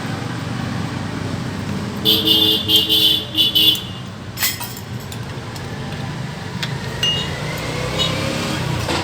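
A vehicle horn honks in a quick series of short toots over the steady rumble of passing traffic. A single sharp metallic clink comes just after.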